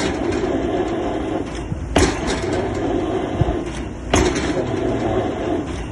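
Excavator drop hammer striking a square concrete pile twice, heavy blows about two seconds apart, over the steady running of the excavator's engine.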